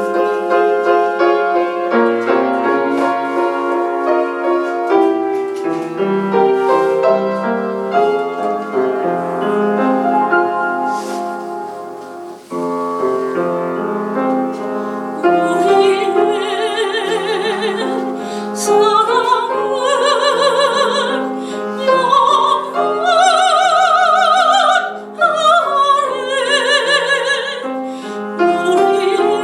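A solo piano plays the introduction to a Korean art song (gagok). About halfway through, a soprano enters, singing in operatic style with wide vibrato over the piano accompaniment.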